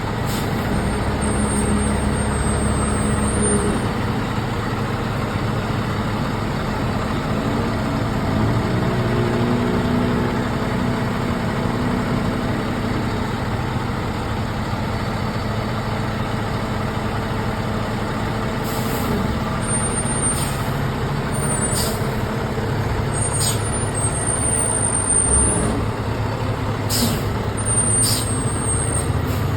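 Fire truck engine running steadily throughout. In the last ten seconds there are several short, sharp clicks or knocks.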